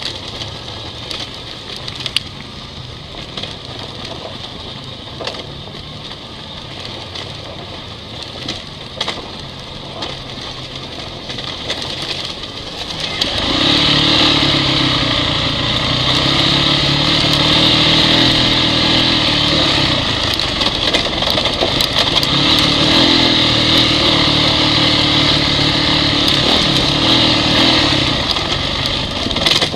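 Honda CRF dirt bike engine running quietly at low revs with scattered knocks. About halfway through it opens up and runs much louder at steady high revs.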